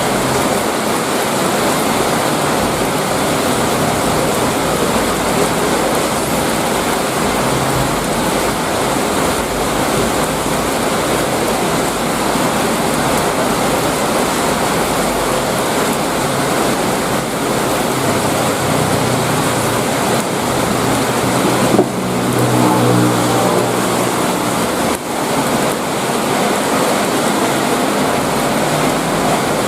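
Heavy rain pouring down in a dense, steady hiss. Past the middle, a low pitched hum rises over the rain for about three seconds.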